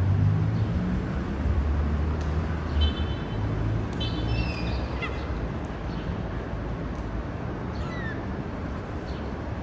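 City street ambience: a steady low traffic rumble, with a few short, faint high calls from an animal, one burst about three to four seconds in and one near the end.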